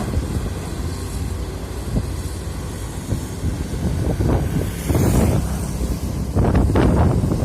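Heavy construction machine's diesel engine running with a steady low rumble, surging louder about five seconds in and again near the end. Wind buffets the microphone.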